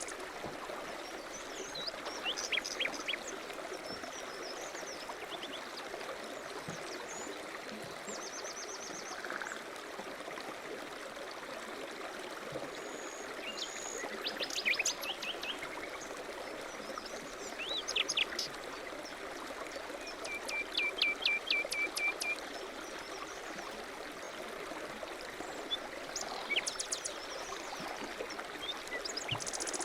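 Small songbirds chirping and calling now and then over a steady rushing noise, with one bird giving a trill of rapid repeated notes around two-thirds of the way through.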